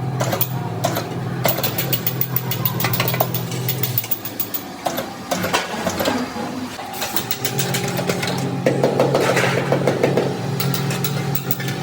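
Workshop machinery in a sheet-metal fuel-tank factory: a steady motor hum that stops about a third of the way in and starts again a few seconds later, with frequent metal clicks and knocks throughout.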